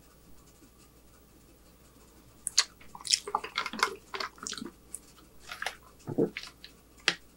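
Close-miked eating sounds: after a quiet stretch, a couple of seconds of wet, clicky chewing, then a swallow as a drink is sipped from a plastic cup, with one more click near the end.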